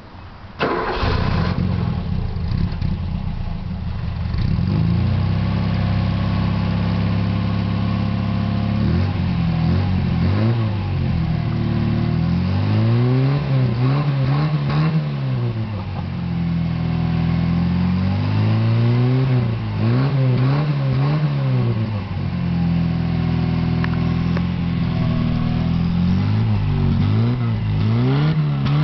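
Ford Fiesta Mk2's standard 1.0-litre four-cylinder engine and stock exhaust, started cold about half a second in and idling high, then settling. From about nine seconds on it is blipped repeatedly, the revs rising and falling in quick groups with idle between.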